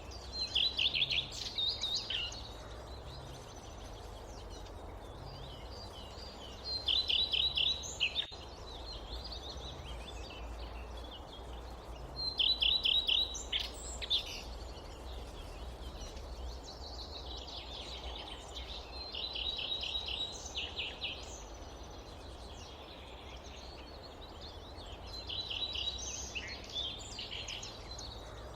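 A songbird repeating a short phrase of rapid, evenly spaced notes about every six seconds, five times, over a steady low rumble of outdoor ambience.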